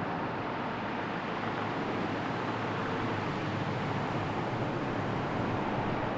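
Steady seaside ambience of sea surf and wind, an even rushing noise with no distinct breaking waves.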